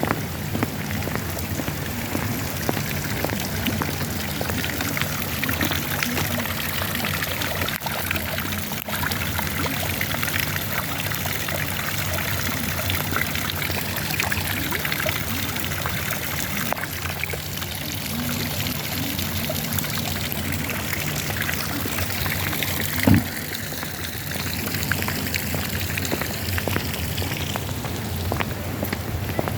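Steady rain falling, a dense even hiss of drops, with a low steady hum beneath it and a single sharp knock about three quarters of the way through.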